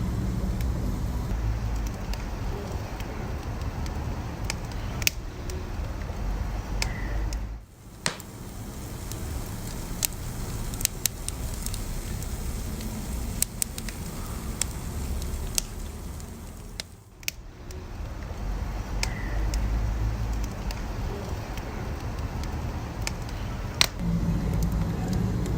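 Wood fire burning with a low rumble and scattered sharp crackles and pops; the rumble briefly drops away twice.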